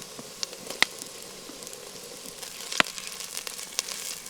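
Onion and ginger-garlic paste sizzling in hot oil in a clay pot over a campfire, a steady hiss with a few sharp pops and cracks, the loudest a little before three seconds in.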